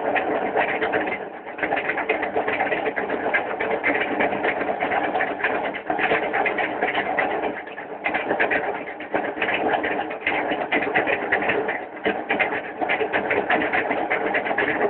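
Washing machine running noisily, a dense rapid clatter and rattle that dips briefly in loudness now and then.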